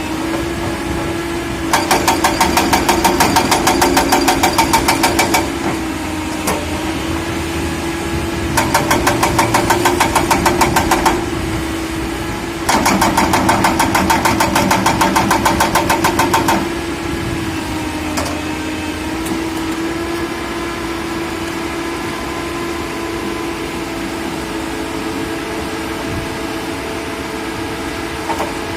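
Excavator diesel engine running steadily, with three stretches of rapid, evenly spaced clattering, several strokes a second, each lasting a few seconds.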